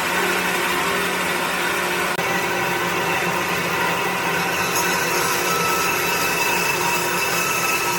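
An electric power tool running steadily, a motor whine over a continuous hiss.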